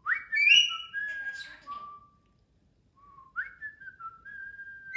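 Jardine's parrot whistling in two phrases of sliding, stepped whistled notes, with a short pause between them.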